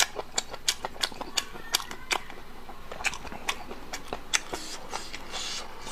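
Close-miked mouth chewing soft, gelatinous braised pork, with wet lip smacks and sharp, irregular clicks about two or three a second.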